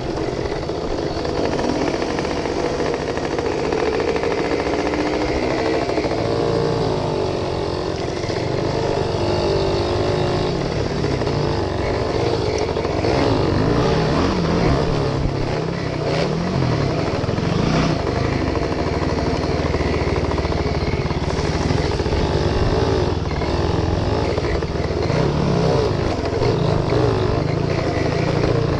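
A 1973 Suzuki RV75's small two-stroke single-cylinder engine running as the bike is ridden, its pitch rising and falling with the throttle. The engine is well down on power, in the owner's words.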